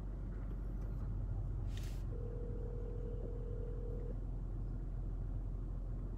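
Steady low rumble of a car being driven. About two seconds in there is a short hiss, followed by a steady single tone lasting about two seconds.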